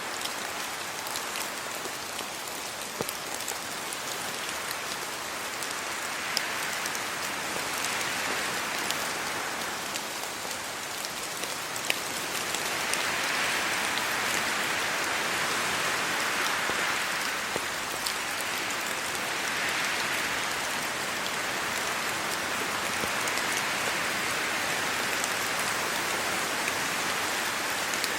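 Steady rain falling on a road and on tree leaves, with many individual drops ticking close by. Wind gusts through the leaves in several slow swells, and the sound grows a little louder about halfway through.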